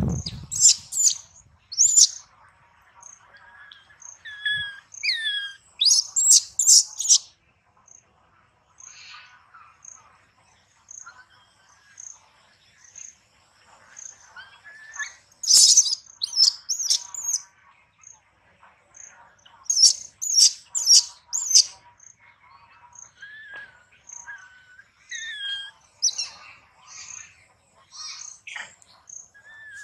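Songbirds chirping in repeated quick bursts of high notes, with slower whistled notes gliding up and down between the bursts. A faint high tick repeats at a steady pace underneath.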